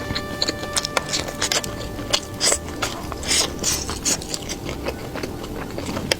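Close-up crunching and chewing of crispy fried skewer food: a run of quick crackling clicks, loudest a little past the middle.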